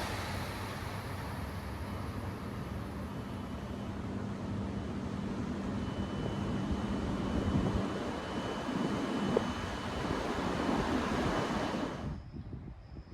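Steady rushing roar of a Shinkansen bullet train running through the station at high speed, well below its peak just after passing. About twelve seconds in it cuts off abruptly, leaving faint insect chirping.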